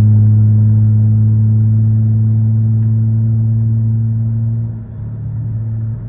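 Car engine and exhaust droning steadily at cruising speed, heard from inside the cabin. The drone eases off briefly about five seconds in, then picks back up.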